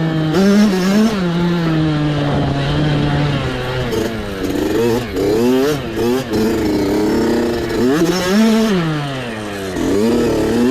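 Small off-road mini bike engine running under the rider's throttle, its pitch rising and falling over and over as it revs up and drops back. The pitch holds fairly steady for a second or two, then swings up and down quickly through the rest.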